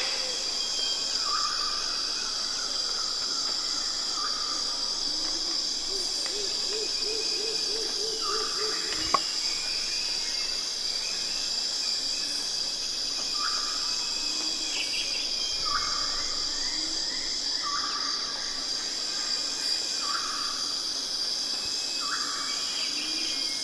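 Steady high-pitched insect chirring throughout, with a bird calling in short repeated notes every second or two. There is a single sharp click about nine seconds in.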